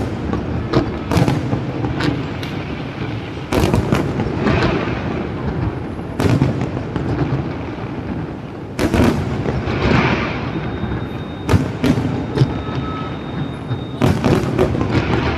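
Fireworks going off in a steady barrage. Loud bangs come every two to three seconds, with smaller pops and crackling in between.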